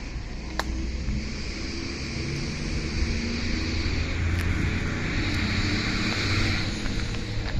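Beiben 6x6 off-road truck's diesel engine running with a low rumble that grows louder about three seconds in, with a steady hiss above it and a few sharp clicks.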